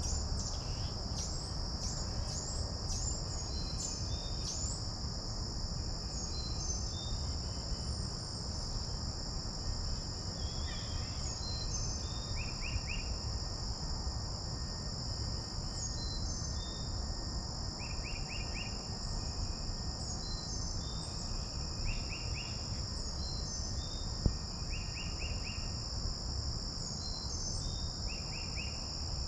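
Steady, high-pitched insect chorus drone on two held pitches, with a bird repeating short chirps and quick little note groups every second or two over it. A low rumble from breeze on the microphone runs underneath.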